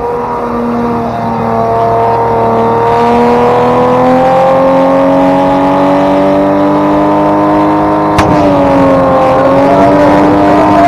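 A car engine held at high revs for several seconds, its pitch wavering slightly, with a sharp click about eight seconds in.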